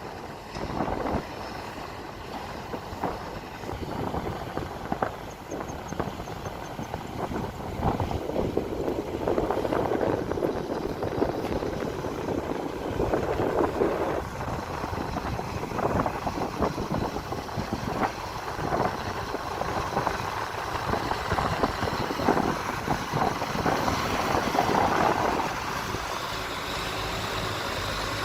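Excavator at work: its diesel engine running and rising and falling with load, with repeated knocks and scraping as the bucket digs.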